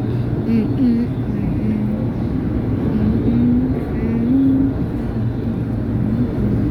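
Running noise inside a moving LRT Line 2 light-rail car: a steady low rumble, with a low tone over it that wavers up and down several times.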